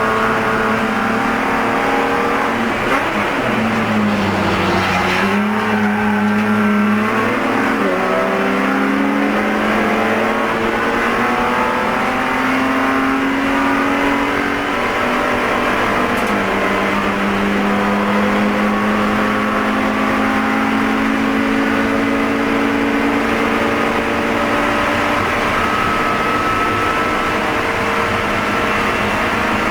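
Spec E46 BMW race car's inline-six engine running hard, heard from inside the car. Its note falls sharply a few seconds in, climbs again, then holds at a steady high pitch.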